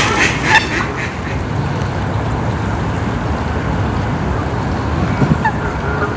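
Waterfowl giving a quick series of honking calls that stops about half a second in, followed by steady low background noise with a couple of faint short calls near the end.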